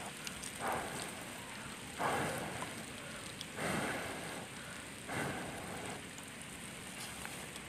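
Steady patter of rain, with four short louder swishing noises about a second and a half apart in the first two thirds.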